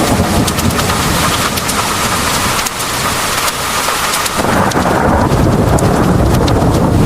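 Heavy rain pouring, with sharp drop taps on top and a low rumble of thunder that eases a few seconds in and swells back up in the second half.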